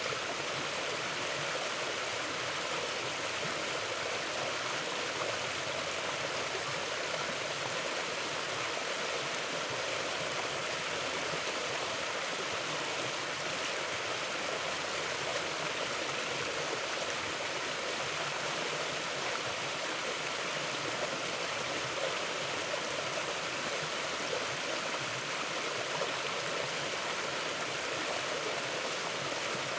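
Mountain river flowing steadily: an even, unbroken rush of running water.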